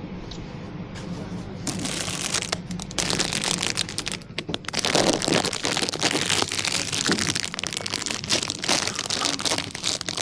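Close crinkling and rustling of plastic, like packaging or a bag being handled, with many small clicks and cracks, starting about two seconds in.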